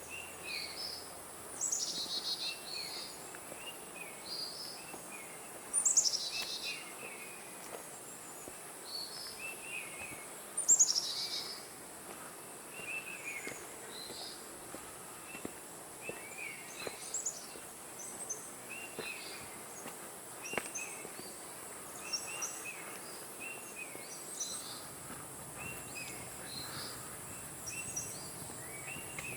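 Forest birds chirping in many short repeated calls, with a few louder, higher calls about two, six and eleven seconds in, over a steady high-pitched insect drone.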